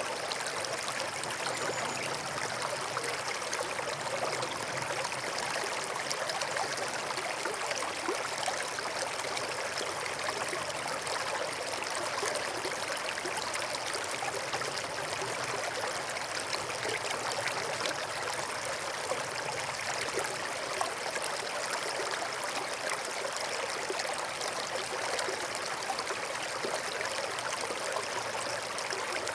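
Small forest stream flowing steadily over stones, a continuous babbling and trickling of water.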